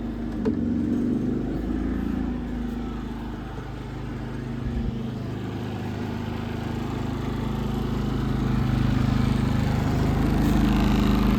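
Predator portable generator's engine running steadily under electrical load, with a click about half a second in and the sound growing louder over the last few seconds. It runs smoothly now that its carburetor has been cleaned.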